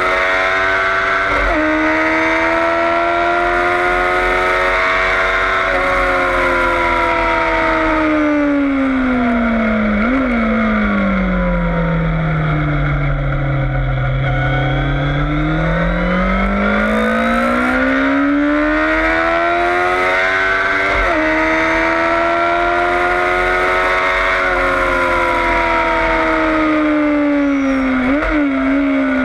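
Yamaha FZS600 Fazer's inline-four engine revving hard on track: it holds high revs, shifts up, then slows with a downshift blip about ten seconds in, the revs dropping low before it accelerates back up through the gears, with another downshift blip near the end.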